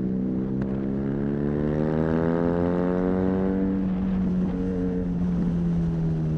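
BMW R nineT's air/oil-cooled boxer twin through an Arrow high-mounted exhaust, pulling at steady road speed. Its pitch rises gently over the first couple of seconds as it gains revs and grows loudest and brightest in the middle, then the throttle eases off a little.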